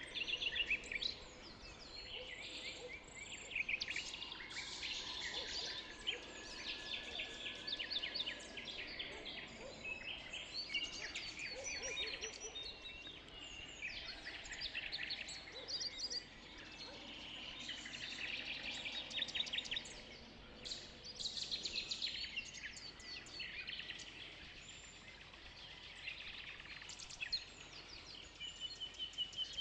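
Several songbirds chirping and singing over one another in a dawn chorus, a busy stream of short chirps and trills with no pause.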